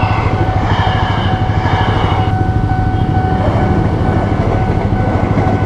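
Yamaha R15 V3's single-cylinder engine breathing through an aftermarket Ronin Musashi exhaust, running steadily at cruising speed over wind and road noise. A steady high whine sits above it and stops near the end.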